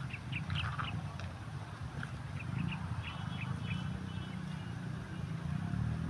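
Birds giving short, high calls in two brief clusters, over a steady low rumble.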